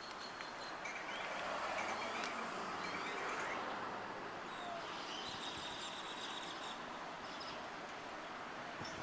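Outdoor ambience: a soft, steady wash of noise that swells about a second in and eases off a few seconds later, with faint high-pitched chirping.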